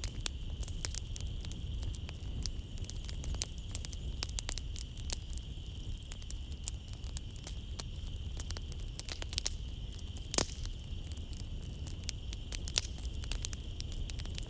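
Wood fire in a fireplace crackling and popping at irregular intervals, with a sharper pop about ten seconds in, over a low rumble of flames. A steady high-pitched chirring of night insects runs underneath.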